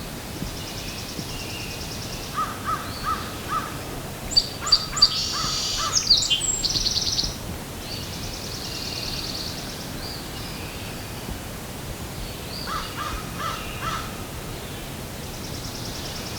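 Several wild birds singing and calling: repeated high trills, a loud run of sharp high notes about four to seven seconds in, and two series of short repeated calls, over a steady outdoor hiss.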